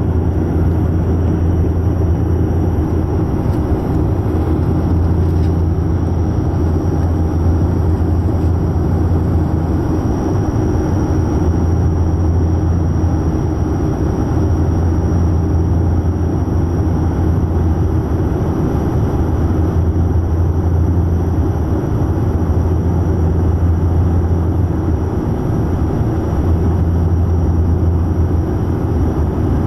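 Steady, loud airplane cabin noise: an unbroken low engine hum with air noise over it.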